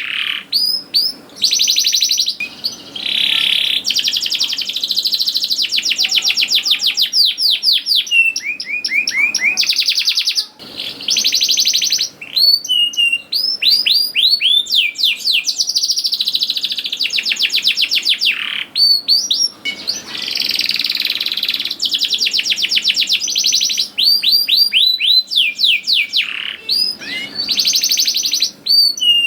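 Domestic canary singing a long, loud song of rapid rolling trills and runs of quick down-slurred chirps, with only brief pauses.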